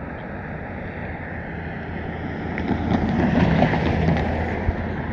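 A road vehicle driving past, its engine and tyre noise swelling to a peak about three to four seconds in, with wind on the microphone.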